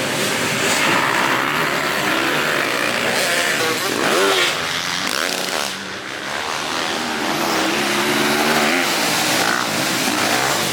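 Small pit bike engines revving on a motocross track, their pitch rising and falling as the throttle opens and closes.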